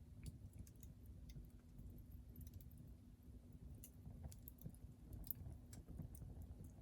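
Hardwood fire crackling faintly, with scattered irregular small pops and ticks over a low rumble.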